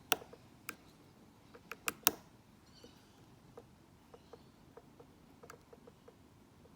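Metal lock pick clicking against the pins inside a Mako padlock as it is being picked: a few sharp clicks in the first two seconds, then a run of light, fairly regular ticks about two or three a second.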